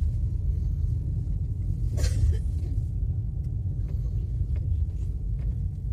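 Steady low rumble of a passenger train coach rolling along the track, heard from inside the carriage, with one sharp clack about two seconds in and a few fainter ticks.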